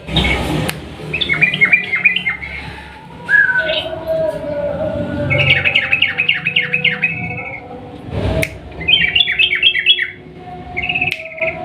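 Sooty-headed bulbul (trucukan) singing in rapid, bubbly runs of quickly repeated notes. There are several such runs of one to two seconds each, with lower drawn-out whistled notes between them. Two brief rushing noises cut in, at the start and a little past the middle.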